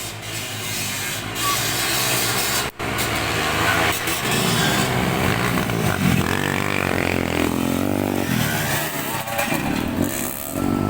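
Motocross dirt bike engines running and revving, their pitch rising and falling in the middle of the stretch.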